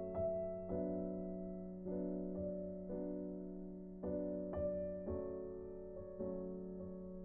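Soft background music on piano or electric piano: gentle sustained chords, each note struck and left to fade.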